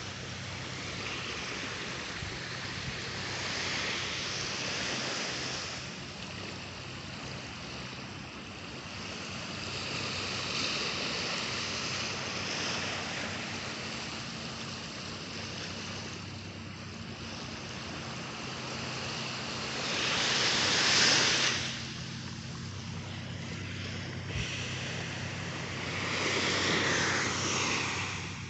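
Small waves breaking and washing up the shore in slow swells, loudest about twenty seconds in, with a steady low hum underneath.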